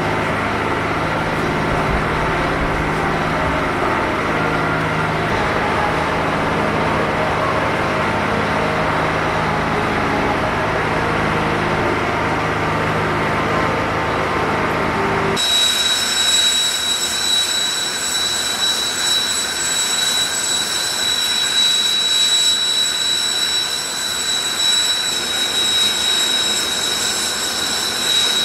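Jet engines of Blue Impulse Kawasaki T-4 aircraft running steadily with a low rumble. About halfway through, the sound switches abruptly to a high, steady turbine whine.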